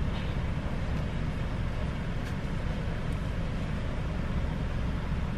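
Steady low rumble of a car engine idling, heard from inside the cabin with the driver's window open.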